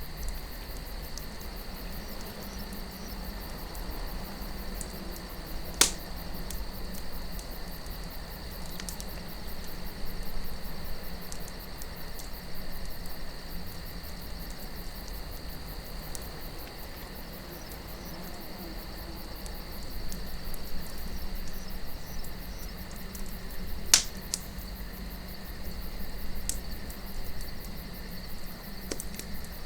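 Wood campfire crackling with scattered small pops and two sharp louder pops, about six seconds in and about twenty-four seconds in. Under it run a steady high cricket trill and a low wind rumble.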